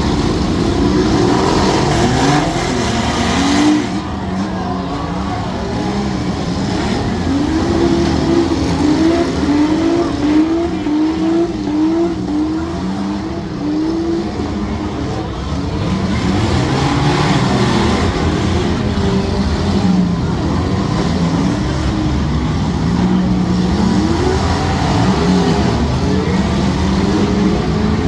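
Several compact demolition-derby cars' engines revving hard, pitch rising and falling as they accelerate and back off, with a run of quick repeated revs, about one a second, in the middle.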